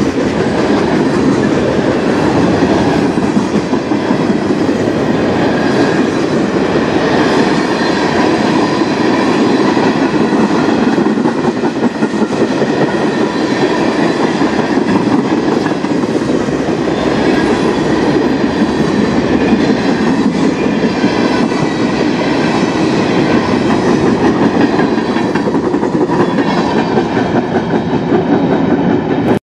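Freight cars of a mixed manifest train rolling past close by, a steady rumble of steel wheels on the rails. The sound cuts off suddenly near the end.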